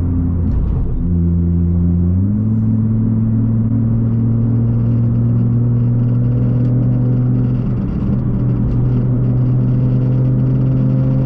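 Nissan GT-R R35's twin-turbo V6 droning steadily inside the cabin at highway speed over road noise, its note stepping up in pitch about two seconds in and then holding steady.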